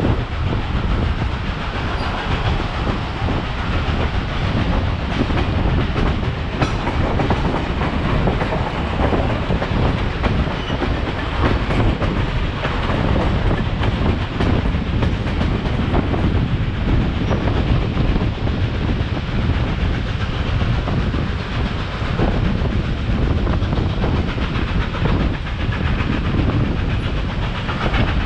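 Passenger train car rolling along the track, heard from the car's side: a steady rumble of steel wheels on the rails with scattered clicks and knocks.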